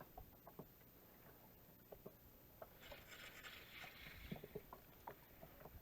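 Near silence: faint scattered small clicks, with a brief soft hiss about three seconds in.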